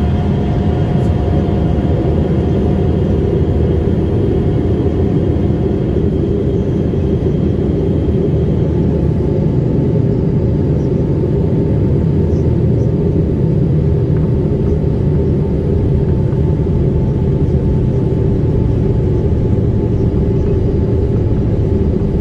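Airliner engine and airflow noise heard inside the passenger cabin: a steady, loud rumble. A faint whine fades out about eight seconds in.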